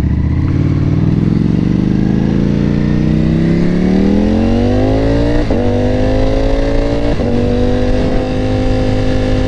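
Ducati Panigale V4 sportbike's V4 engine pulling away and accelerating, its pitch climbing steadily, then two quick upshifts, one a little past halfway and one a couple of seconds later, before it settles at a steady cruise.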